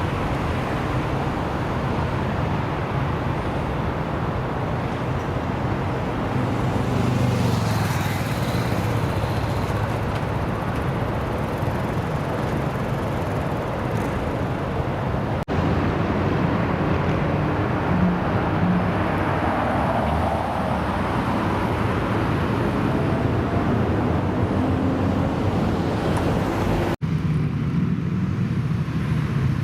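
Car engines running amid steady traffic noise, with one engine swelling louder for a couple of seconds about a quarter of the way in. The sound breaks off abruptly twice and resumes.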